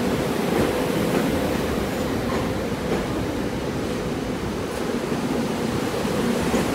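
Train rolling through the station, a steady rushing rumble of wheels on rail with a few faint clicks.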